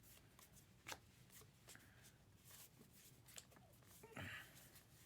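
Faint handling of trading cards being flipped through: a few soft, sparse clicks and a brief rustle about four seconds in.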